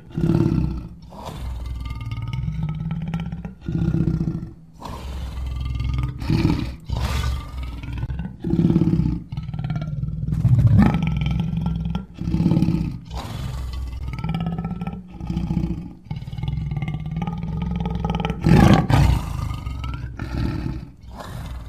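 Lion roaring and growling, a long run of loud calls about a second or two each with short breaks between them.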